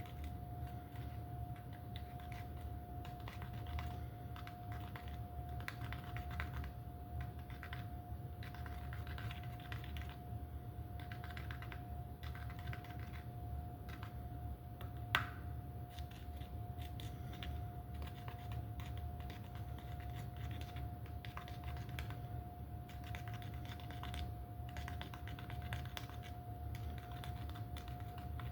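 Irregular light clicking and scratching of small hand-worked objects, with one sharper click about halfway through, over a steady low hum and a faint steady whine.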